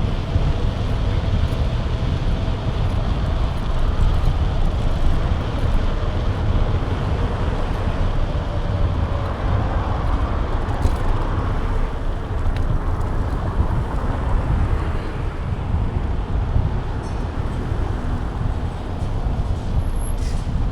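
Wind buffeting an action camera's microphone on a moving bike, a loud, steady rush with deep rumble, mixed with road noise.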